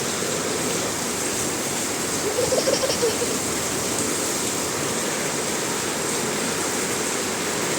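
Heavy rain pouring down in a steady, unbroken rush. A brief faint pitched sound rises over it about two and a half seconds in.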